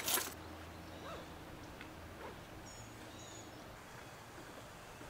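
A short noisy burst right at the start, then quiet outdoor ambience with a low steady hum and a few faint, distant bird chirps about three seconds in.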